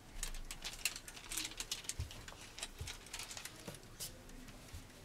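Clothes being handled and hung on a metal drying rack: fabric rustling with quick light clicks and taps, and a few soft low thumps.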